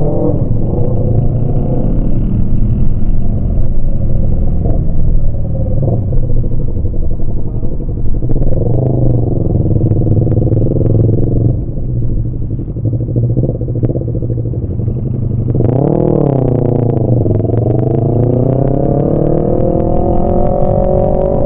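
Yamaha MT-25 parallel-twin engine pulling a motorcycle uphill, its revs rising and falling with the throttle and gear changes. It dips sharply about halfway through, flares up and drops quickly about sixteen seconds in, then climbs steadily again.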